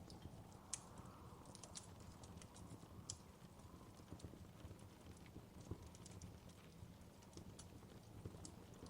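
Faint wood fire crackling in a fireplace: irregular small clicks and occasional sharper pops over a steady low rumble.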